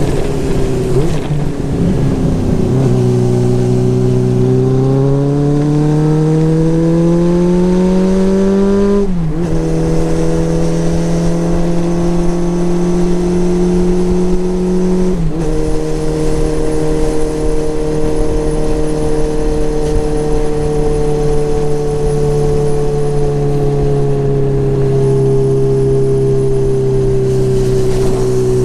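Kawasaki Zephyr χ's inline-four engine under way: the revs climb, drop sharply at an upshift about nine seconds in and again about fifteen seconds in, then hold at a steady cruise that eases off slightly near the end.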